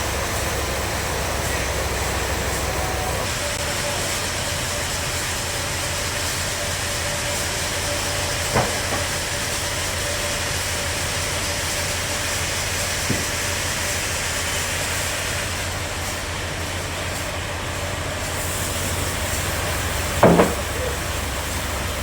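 Bandsaw sawmill running steadily: an even machine noise with a faint held tone, broken by three sharp knocks, the loudest near the end.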